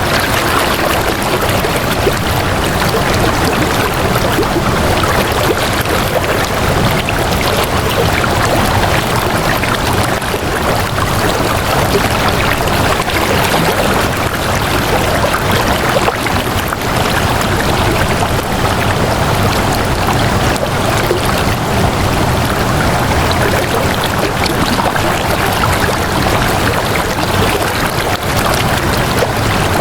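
Flowing water rushing steadily and evenly, a continuous stream sound with no breaks.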